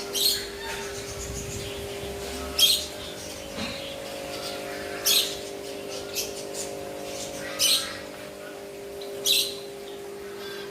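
Caged aviary birds calling: five loud, shrill squawks spaced two to three seconds apart, with softer chirps between, over a steady low hum.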